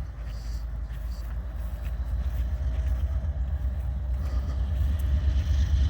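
Diesel switcher locomotive running with a deep, steady engine rumble that grows gradually louder.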